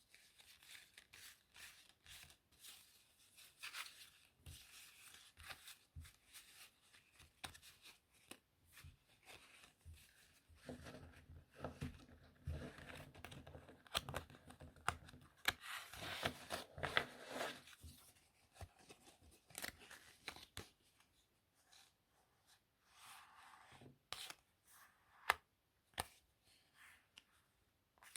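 Playing cards being handled: a run of papery rustles with sharp card snaps and taps, busiest about halfway through.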